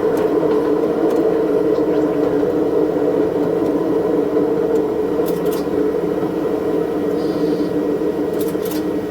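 Diesel railcar running, heard from the front of the train: a steady, even engine drone, pitched up by double-speed playback, with a few short sharp clicks about five seconds in and again near the end.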